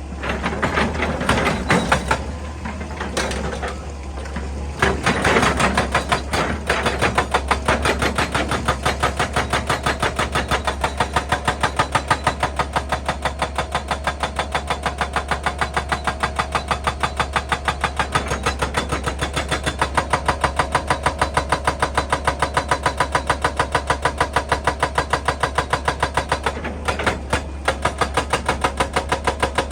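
Excavator-mounted hydraulic breaker hammering rock over the hum of the machine's engine. Irregular knocks and clatter come first, then about seven seconds in it settles into rapid, evenly spaced blows, several a second.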